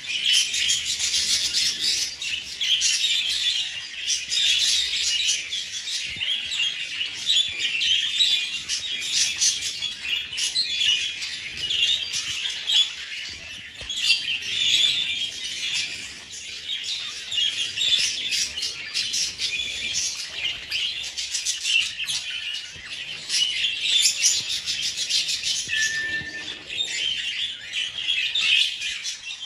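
A flock of budgies chirping and chattering continuously, many birds calling over one another.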